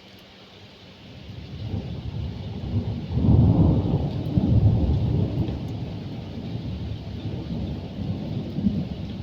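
Thunder rumbling over steady rain. The rumble builds about a second in, is loudest around three to four seconds in, then rolls on more quietly.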